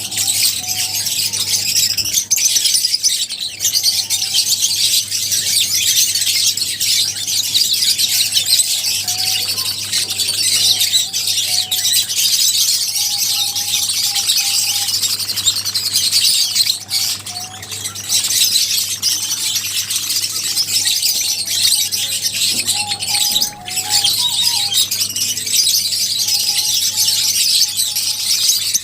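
A flock of lovebirds chattering continuously in a dense, shrill twitter, with short squeaky notes mixed in. A steady low hum runs underneath.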